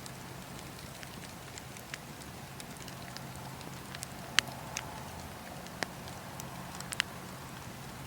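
Wood fire burning in a fireplace, with sharp crackles and pops scattered over a low steady hum, the loudest pop about halfway through.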